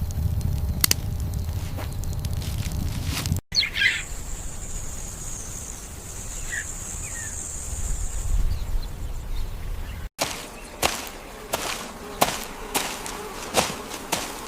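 Layered outdoor nature sound effects in three cut segments. First a low rumble with a few clicks, then a steady high insect-like buzz lasting a few seconds, then a run of sharp knocks about twice a second, like footsteps.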